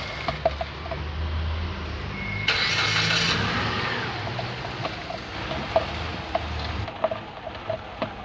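Mitsubishi ASX front suspension giving irregular clicks and knocks over a low vehicle rumble, the noise of a faulty bearing in the strut top mount. About two and a half seconds in, a burst of hiss rises over it for a second or so.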